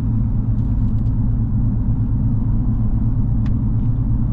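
Steady low rumble of a truck, heard from inside its cab, with a couple of faint clicks.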